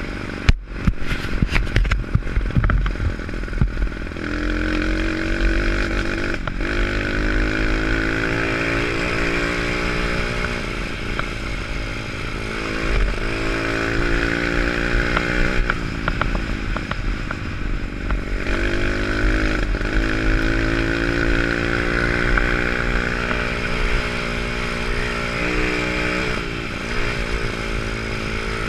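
Pit bike's single-cylinder four-stroke engine running under riding load, its pitch climbing in several long pulls and dropping back between them. A quick cluster of knocks and clatter comes about a second in.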